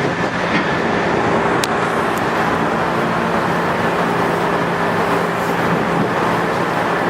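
103 series resistance-controlled electric train running, an even rumble of wheels on rail with steady hum tones from its traction motors.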